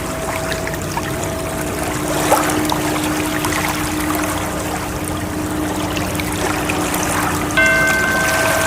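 Steady rushing water with soft, steady tones held underneath it; a new, brighter tone comes in near the end.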